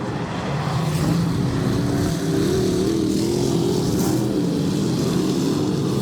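Several dirt-track race car engines running at speed on the oval, their pitches wavering up and down as the cars go around.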